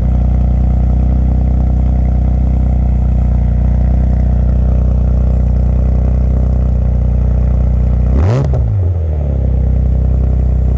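A sports car's engine idles steadily after a cold start, heard close to its exhaust tips. About eight seconds in, one quick throttle blip rises in pitch and drops back to idle.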